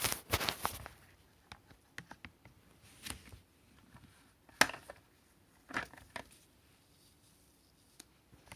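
Handling noises: a cluster of rustling and clicks at the start, then scattered sharp clicks and knocks, the loudest about four and a half seconds in. No motor is running.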